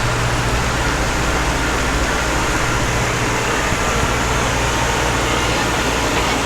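Heavy haulage truck's engine running steadily, with an even rush of road noise.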